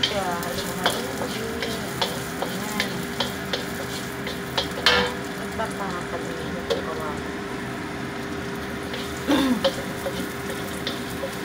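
Chopped onion frying and sizzling steadily in a wok, stirred with a wooden spatula that scrapes and knocks against the pan at irregular intervals, most sharply about five seconds in and again near nine and a half seconds.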